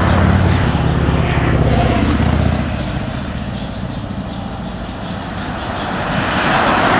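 Narrow-gauge freight train rolling away along the track, with a low engine drone that drops off about two and a half seconds in and a vehicle rushing past near the end.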